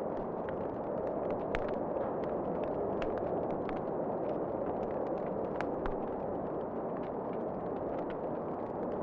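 Wood fire crackling, with irregular sharp pops and snaps, a few louder ones, over a steady rushing background.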